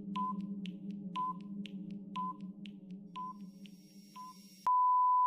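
Quiz countdown-timer sound effect: a ticking clock over a steady low drone, with a short beep each second five times, then a long beep of the same pitch that marks time up.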